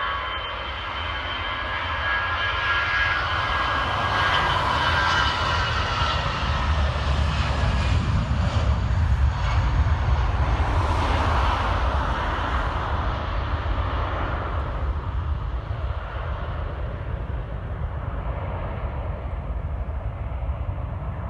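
Airbus A319 jet engines at takeoff thrust: a high whine fades early on, under a deep rumble that builds to its loudest about ten seconds in and then slowly eases off.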